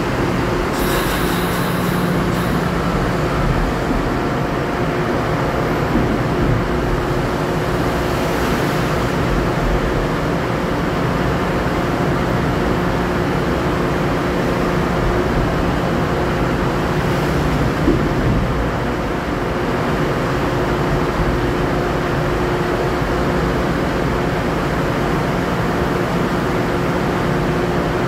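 LIRR M3 electric multiple-unit train standing at the platform, its onboard equipment giving a steady hum. A short hiss comes about a second in, and there is a single small knock later on.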